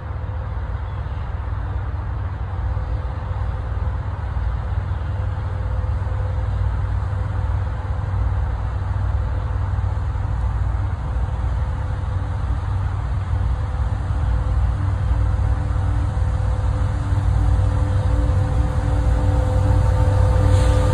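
A CN freight train headed by several diesel locomotives approaching: a steady low rumble that slowly grows louder, with faint engine tones coming through over the last few seconds.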